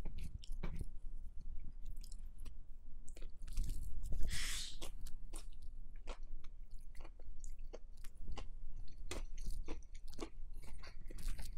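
Close-miked chewing of a mouthful of broken rice and pork, with many small wet mouth clicks. A brief hiss comes about four seconds in.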